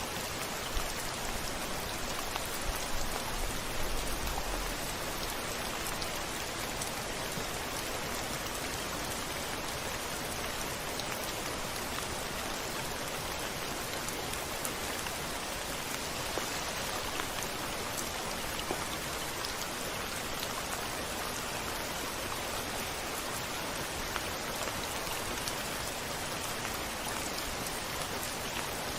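Steady rain falling on a window pane, with scattered individual drop taps. A brief low rumble of thunder comes about three seconds in.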